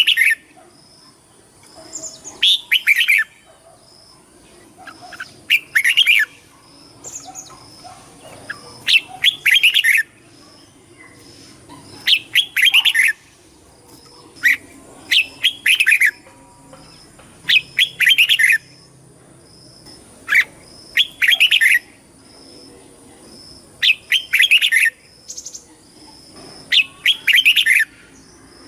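Red-whiskered bulbul singing loud, short warbled phrases, one about every three seconds.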